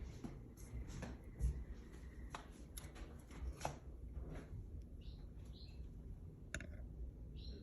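Baby canary moving about in its cage: scattered light clicks and scratches, with a few faint short cheeps about five seconds in and again near the end.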